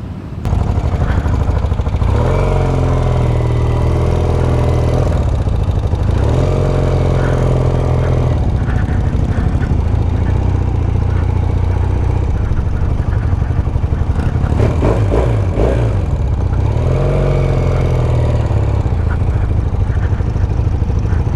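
Motorcycle engine running under way, its note swelling and easing back three times as the rider works the throttle.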